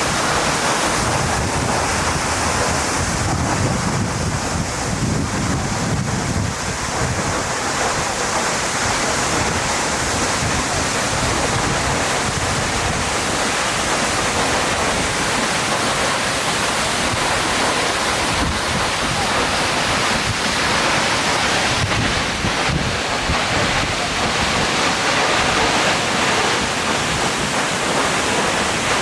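Diaoshuiyan Waterfall's water pounding down: a loud, steady roar of falling water, heard close in its spray and mist, with wind buffeting the microphone.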